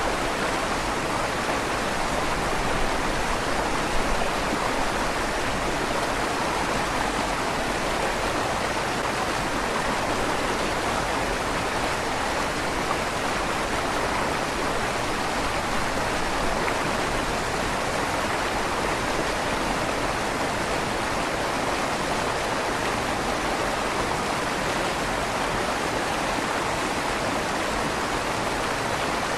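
River water flowing steadily through a stone tunnel under a bridge, a constant rushing with a slight echo off the stonework.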